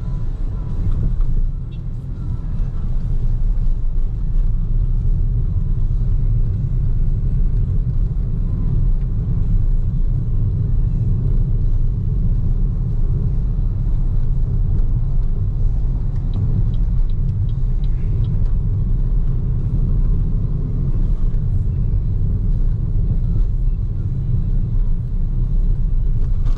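Steady low road rumble from inside a moving BYD Seagull electric car: tyre and wind noise with no engine sound, easing briefly about two seconds in.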